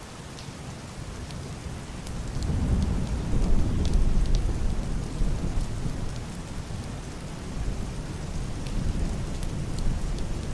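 Heavy rain pattering steadily on a roof and window glass, with scattered drop ticks. A low, muffled rumble of distant thunder swells about two seconds in and slowly rolls away.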